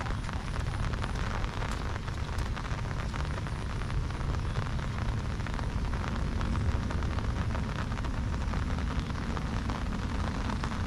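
Steady monsoon rain falling, a dense patter of drops over a constant low rumble.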